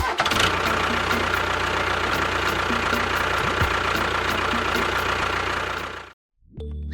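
An engine running steadily at idle for about six seconds, then cutting off suddenly.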